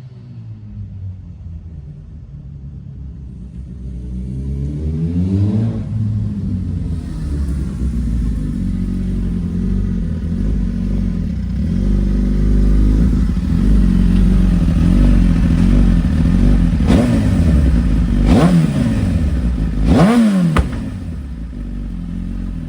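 Suzuki GSX-R1000's inline-four engine running through a catless exhaust header, just patched with JB Weld and a clamp. The revs rise and fall as it pulls through the gears, with three quick sharp throttle blips near the end.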